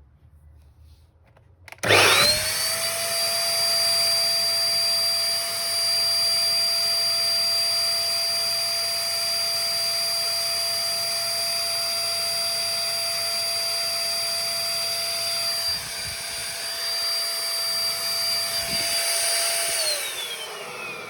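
Vacuum cleaner switched on about two seconds in and running steadily with a high motor whine, its pitch dipping briefly near the two-thirds mark. It is switched off near the end, the whine falling as the motor winds down.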